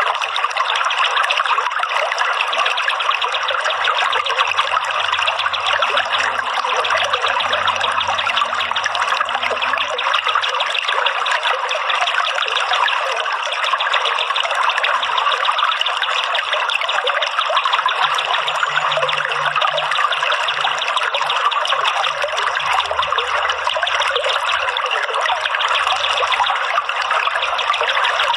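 Steady trickling, running water, an unbroken flowing sound.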